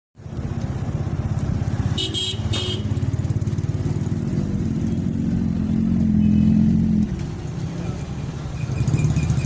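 Motorcycle engine running with a steady, low, pulsing exhaust note, which swells a little and then drops suddenly about seven seconds in.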